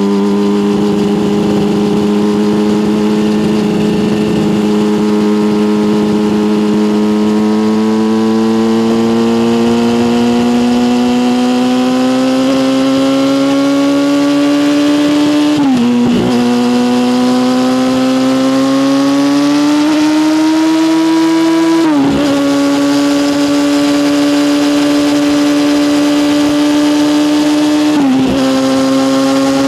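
Yamaha motorcycle engine through an SC Project aftermarket exhaust, pulling under light throttle with its pitch slowly rising. It upshifts three times, its note dropping at each change: about halfway through, again a few seconds later, and near the end.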